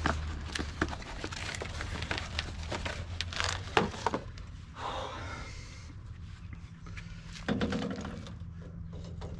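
Scattered light clicks and knocks of wheel spacers and hardware being handled, with a short rustle partway through.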